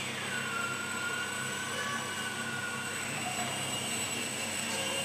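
Kyosho Minium Extra 330SC micro RC airplane's small electric motor and propeller whining in flight, the pitch changing with the throttle: it falls quickly just after the start, holds lower, then rises about three seconds in and holds.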